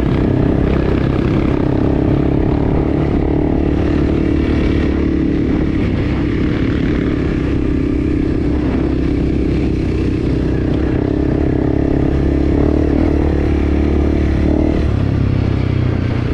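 Enduro motorcycle engine running steadily under way, with the note shifting a little about fifteen seconds in.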